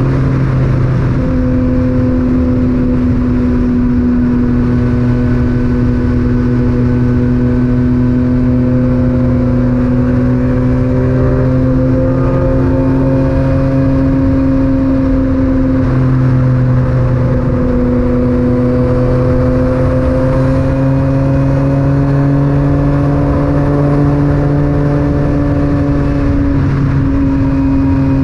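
Yamaha MT-09's three-cylinder engine through an Akrapovic titanium exhaust, heard from the rider's position while riding at fairly steady revs. The pitch rises and falls gently with small throttle changes.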